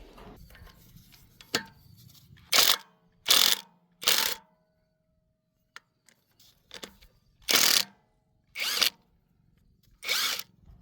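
A handheld power tool run in six short bursts, each under a second, with pauses between them and a sharp click before the first.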